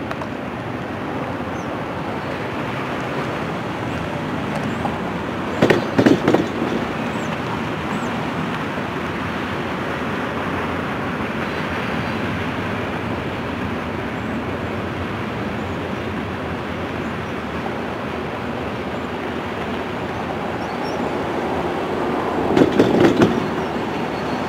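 Freight cars of a mixed freight train rolling steadily across a steel girder bridge, a continuous rumble of wheels and car bodies. Two short bursts of loud clanking stand out, about six seconds in and again near the end.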